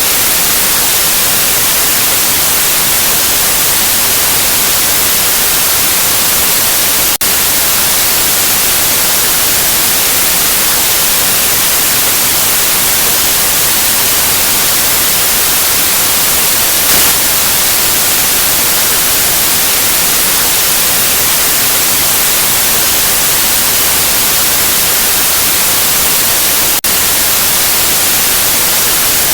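White noise: a steady, loud, even hiss, brightest in the treble, with two momentary dropouts, one about a quarter of the way in and one near the end.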